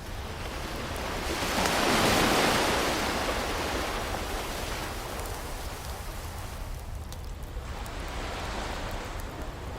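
Ocean waves breaking and washing up: one wave swells to its loudest about two seconds in and drains away, and a smaller one rises near the end. A few faint crackling pops from a wood fire come about seven seconds in.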